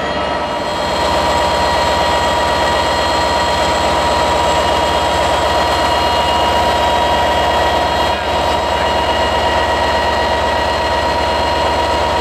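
Train running at a station platform: a loud, steady drone with constant high-pitched whining tones, swelling about a second in and then holding steady.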